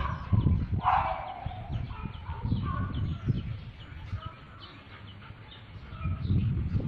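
Birds calling in the background: short scattered chirps and clucks, with one stronger call about a second in, over a low rumble.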